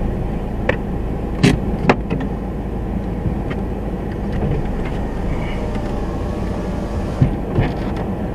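Car engine idling steadily, heard from inside the cabin, with a few sharp clicks, most of them in the first two seconds.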